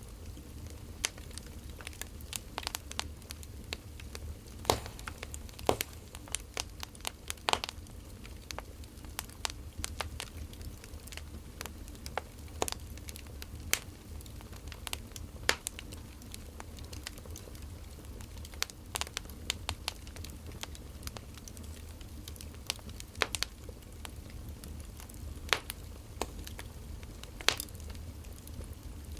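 Wood fire crackling, with irregular sharp pops of burning logs every second or so over a low steady rumble.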